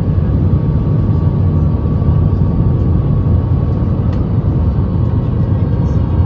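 Steady cabin rumble inside an Airbus A321-251neo in flight: its CFM LEAP-1A engines and the rushing air heard from a window seat, with a faint steady high whine over it and a faint click about four seconds in.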